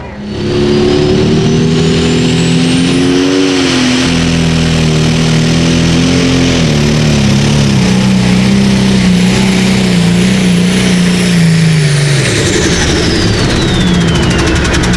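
Pulling tractor's engine running loud and steady, its pitch sinking slowly, with a high whistle that rises over the first few seconds, holds, then falls away near the end.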